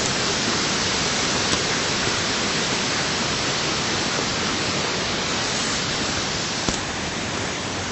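Steady rush of water falling and flowing, an even hiss with two faint clicks.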